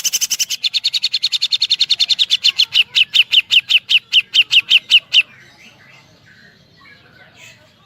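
Cucak jenggot (grey-cheeked bulbul) giving a fast woodpecker-style 'tembakan' rattle: a rapid run of sharp, clear notes that gradually slows and stops about five seconds in.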